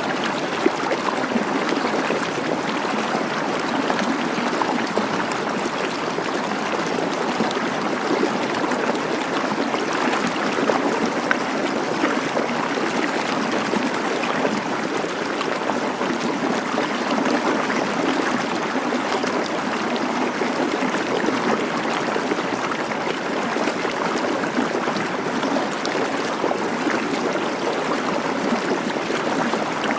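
Waterfall: water cascading over rocks in a steady, unbroken rush.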